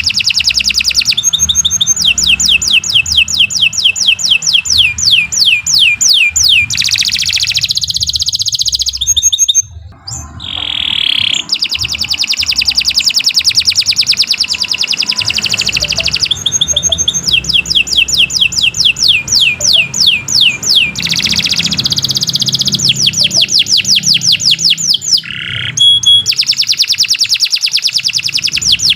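Domestic canary singing a long, loud song of fast rolling trills and rapid repeated notes, with a brief pause about ten seconds in.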